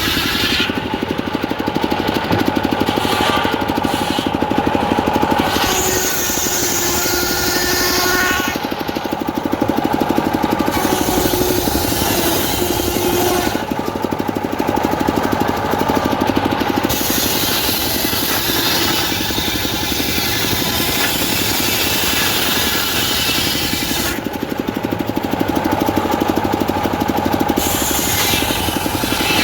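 Diesel-engine-driven homemade circular saw running hard, cutting teak wood. The high hiss of the blade in the wood comes and goes several times over the steady rough clatter of the machine.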